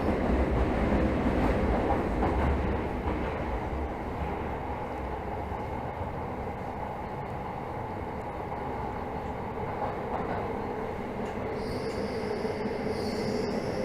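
Interior running sound of a Tokyo Metro 13000 series subway car coming into a station: a steady rumble of wheels and running gear that eases off as the train slows. A high, steady squeal joins in near the end.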